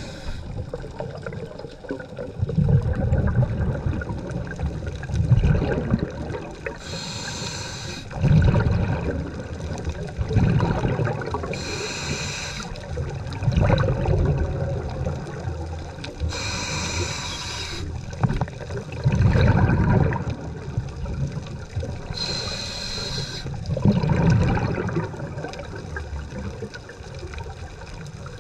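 Scuba diver breathing through a regulator underwater in a slow, regular cycle. A short hiss on each inhale comes about every five to six seconds, each followed by a low burbling rush of exhaled bubbles.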